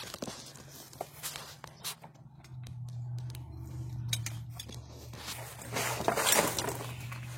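Small clicks, knocks and rustles of a metal bracket and hand tools being handled while it is refitted, over a steady low hum. A louder scraping rustle comes about six seconds in.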